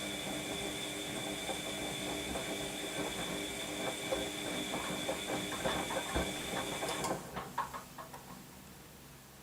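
Washing machine running, its motor humming with a high-pitched whine over irregular knocking and tumbling from the drum. The motor cuts off suddenly about seven seconds in, followed by a few clicks and then a faint hiss.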